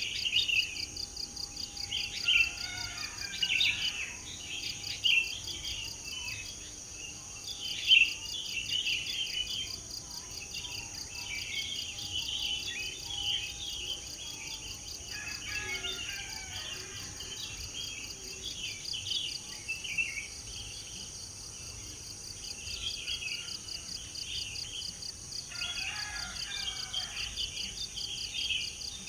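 Several songbirds chirping and singing in short, overlapping bursts, over a steady, high-pitched, pulsing insect chorus.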